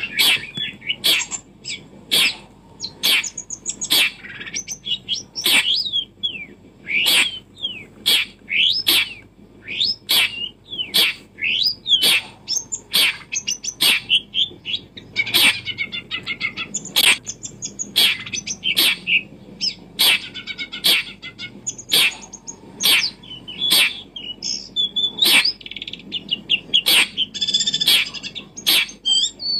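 Birds chirping and calling in quick, short notes that slide up and down in pitch, over a run of sharp clicks about twice a second.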